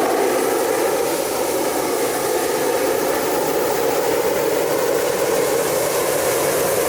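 Hot-air balloon inflation gear running with a steady, loud, unbroken rush of air.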